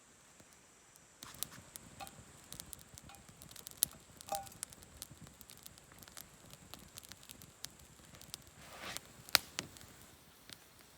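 Campfire wood crackling and popping in irregular snaps, starting about a second in, with a sharp loud pop about nine seconds in.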